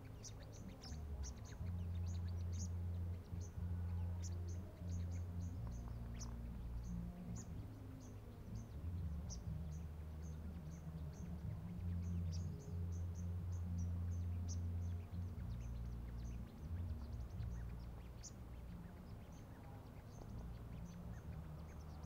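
Small birds chirping: short, high chirps in quick runs, some louder and sharper than others, over an uneven low rumble.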